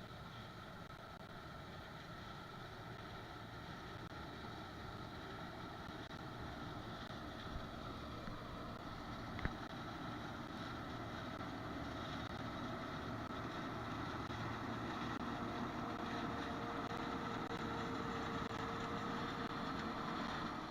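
Harvest machinery running steadily, a low engine drone with a steady whine over it, slowly growing louder; a single sharp click about nine seconds in. The sound cuts off suddenly at the end.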